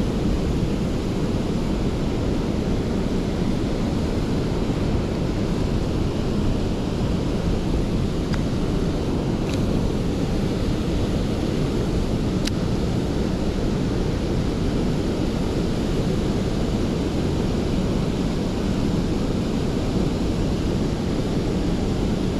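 Steady rumbling wind noise on the microphone, with three faint ticks near the middle.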